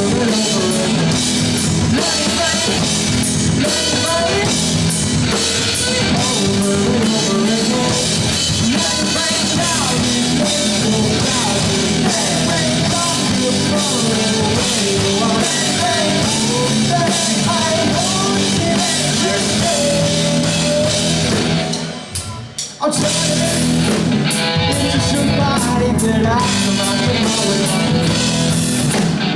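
Rock band playing live: drum kit, electric guitar and singing. About three-quarters of the way through the music stops short for about a second, then the full band comes back in.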